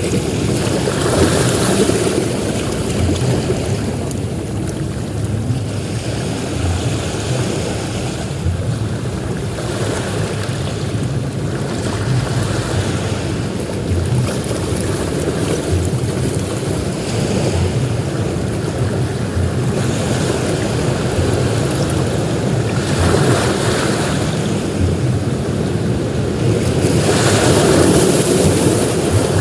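Sea waves breaking and washing onto a beach: a continuous surf wash that swells in slow surges as each wave breaks, loudest near the end.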